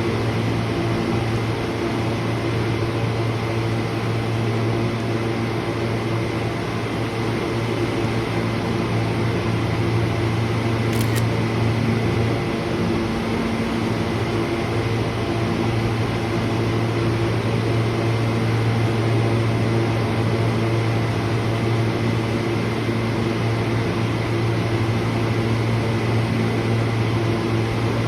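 Steady hum of a subway train standing in the station: its air-conditioning and electrical equipment run as a constant low tone over an even rushing noise.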